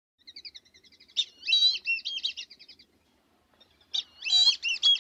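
A songbird singing: a run of quick high chirps, then a warbling phrase, repeated about four seconds in.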